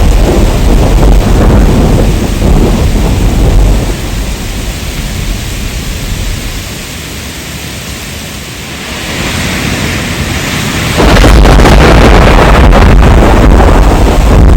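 Heavy rain with deep thunder rumbling. The rumble fades for several seconds in the middle, leaving mostly the hiss of the rain, then comes back suddenly and loud near the end.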